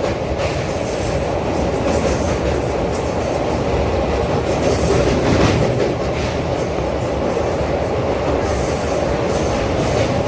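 Train running steadily along the rails: a continuous rumble of wheels and carriages with a faint high wheel squeal.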